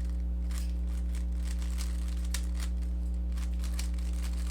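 Rubik's cube being turned through an algorithm: a rapid, irregular run of plastic clicks and clacks from the layers turning. A steady low electrical hum sits under it.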